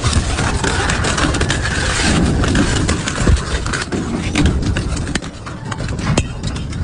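Double-shaft shredder running under load as it chews through scrap: a steady low rumble with many irregular sharp cracks and knocks.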